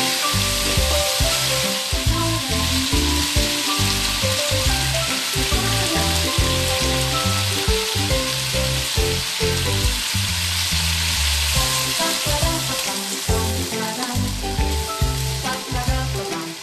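Pork ribs, lotus root and shiitake mushrooms sizzling steadily as they stir-fry in a wok, stirred at times with a wooden spatula. Background music plays along with it.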